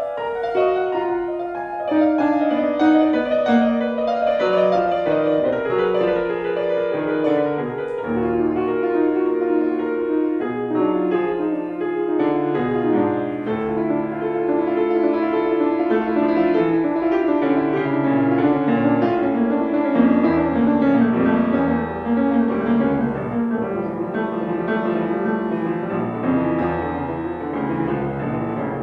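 Solo piano played live: a run of notes stepping downward in the first few seconds, then full chords under a moving melody.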